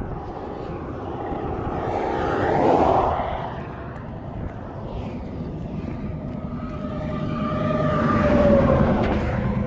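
Two vehicles passing at highway speed, one about three seconds in and one near the end, each swelling and fading with a falling tone as it goes by.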